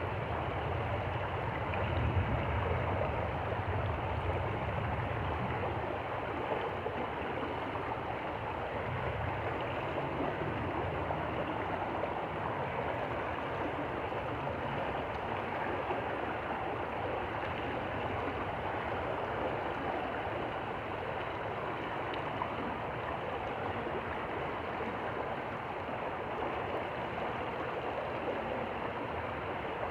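Stream water flowing steadily over stones, a continuous rushing and gurgling. Underneath it, a low rumble is strongest about two seconds in and fades away over the next ten seconds or so.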